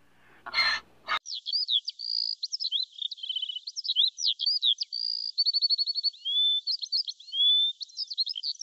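A songbird singing a fast, varied song of chirps, trills and short slurred whistles, starting about a second in. The song sounds thin, with no low end. Just before the song come a short hiss and a click.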